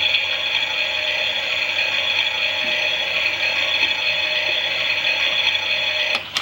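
The small electric motor and plastic gears of a Klein toy Miele washing machine, turning the drum with a steady, grinding whir. It cuts off with a click near the end.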